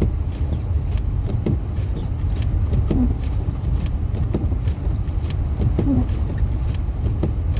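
Steady low rumble of a truck driving along a snow-covered highway, heard from inside the cabin.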